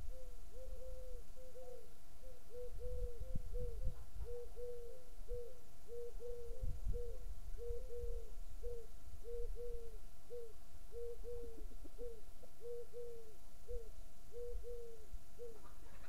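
A bird calling a long series of short, low hooting notes, about two a second in small groups, stopping near the end, while wind gusts rumble on the microphone.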